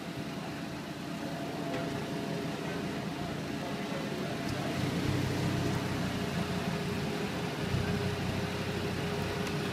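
Car engine idling, a low steady rumble that grows louder about five seconds in.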